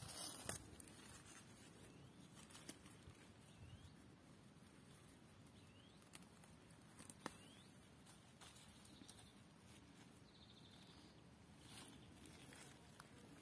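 Near silence: faint outdoor ambience with a few small clicks and rustles.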